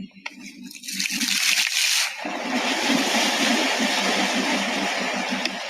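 Rushing, splashing water that swells about a second in and then holds steady.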